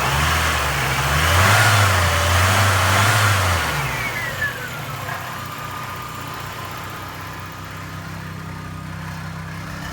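1991 Mercury Capri's four-cylinder engine revved once for about three seconds, then dropping back to a steady idle. A piece of the exhaust rattles along with it, which the presenter takes for a loose catalytic converter plate; the engine itself runs quiet.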